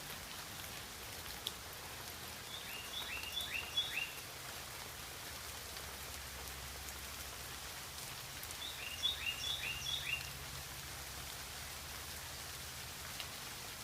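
Steady rain falling on garden foliage. Twice, an animal calls in a quick run of four or five short chirps, each falling in pitch.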